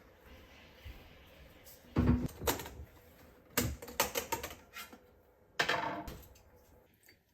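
Clattering knocks of kitchen items being handled: a few sharp clicks and bumps in quick clusters, the last one about two thirds of the way through trailing off.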